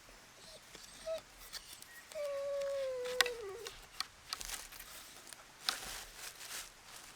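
A dog whining: a short whimper, then one long whine that falls slowly in pitch and wavers as it ends. Light rustling and clicks sound around it.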